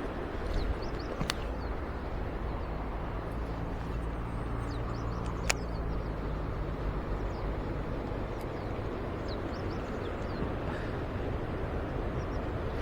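Steady rush of a mountain stream, with a few faint high bird chirps and two sharp clicks.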